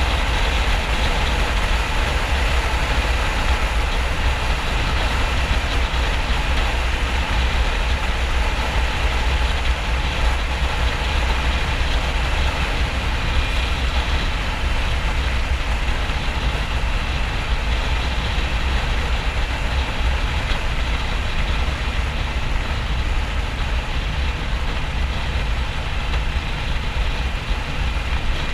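Harley-Davidson XL1200N's air-cooled V-twin running steadily at motorway speed, under a heavy, steady wind rumble on the microphone.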